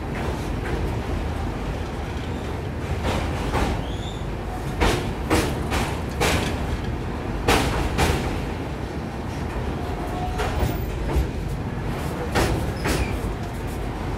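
Moving passenger train: a steady low rumble of the running coach, with sharp wheel clacks over rail joints coming at uneven intervals.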